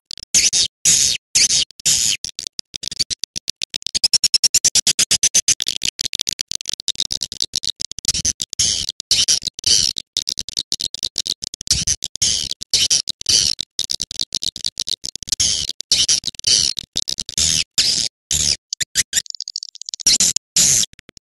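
Swiftlet call recording used to lure swiftlets to a nesting house: dense, rapid high chirping and twittering in quick runs, broken by short pauses, with one longer break near the end.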